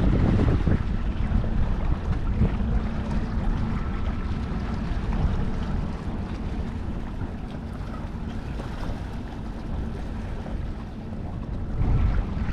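Wind buffeting the microphone in gusts, over a faint steady low hum.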